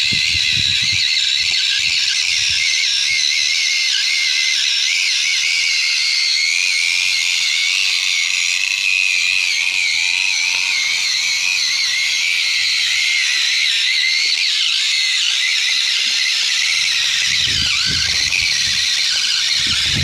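Steady high-pitched whine of a remote-control toy tractor's small electric motor and gears, wavering slightly in pitch, starting suddenly.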